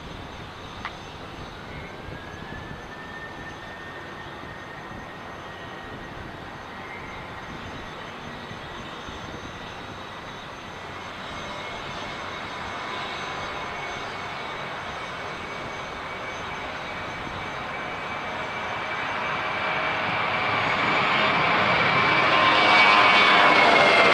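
Jet airliner's engines spooling up for takeoff, the fan whine rising in pitch and then holding. The engine noise grows steadily louder as the aircraft rolls and approaches, and near the end it is at its loudest and the pitch starts to drop as it goes by.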